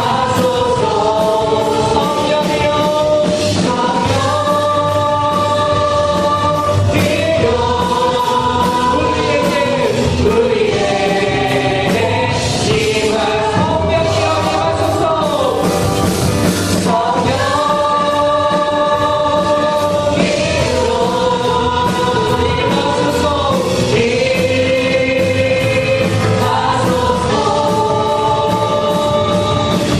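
A praise team singing a gospel worship song together in chorus over band accompaniment with a steady beat.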